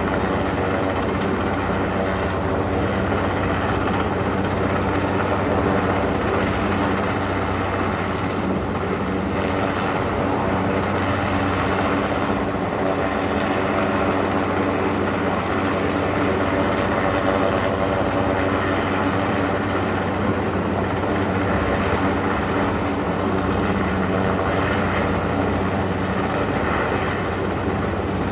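Helicopter rotor and turbine running steadily while the helicopter hovers during a heavy lift, a continuous drone with an even beat.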